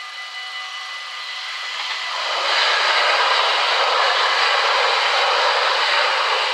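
NS Sprinter New Generation electric train passing over a level crossing: a rush of wheel and running noise builds about two seconds in, holds for about four seconds and drops off quickly as the last car clears. Underneath, the crossing's warning bells ring steadily.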